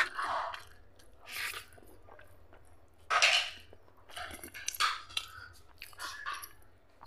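Close-miked chewing and mouth sounds of someone eating mutton fat curry with rice, in irregular bursts with the loudest about three seconds in.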